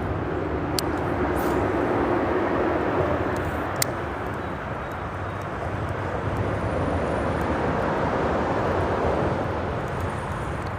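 Steady rumble of freeway traffic crossing the bridge overhead, swelling and easing as vehicles pass, with a few faint clicks.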